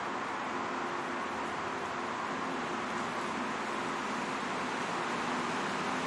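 Steady hiss-like noise with a faint low hum underneath, even throughout, from traffic or a running fan or machine.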